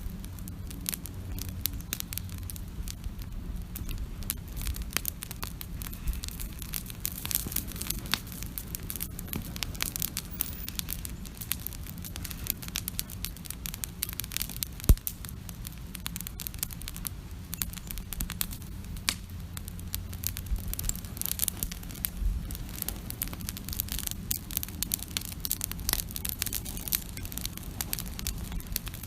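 Wood campfire crackling, with many small pops and snaps and one sharp, louder pop about halfway through, over a low steady rumble.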